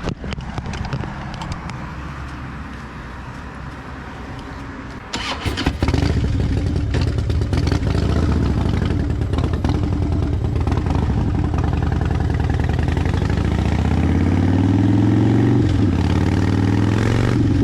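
Harley-Davidson Fat Bob's V-twin engine starting about five seconds in and running loudly, then pulling away: its pitch rises as it accelerates, drops briefly at a gear change, and climbs again near the end.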